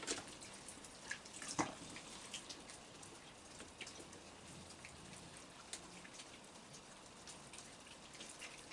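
Light rain, with scattered raindrops ticking irregularly on surfaces. Two louder drops or taps land right at the start and about a second and a half in.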